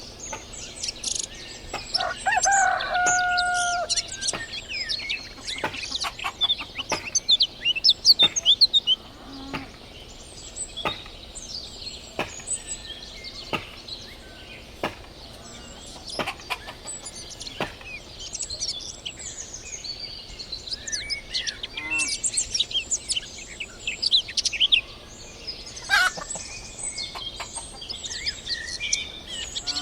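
Small songbirds chirping and twittering throughout, busiest around eight seconds in. A rooster crows once, a long held call about two seconds in.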